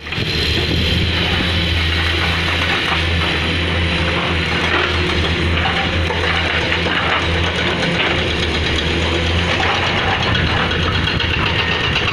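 Excavator's diesel engine running steadily with a low, even hum, with faint irregular clatter over it.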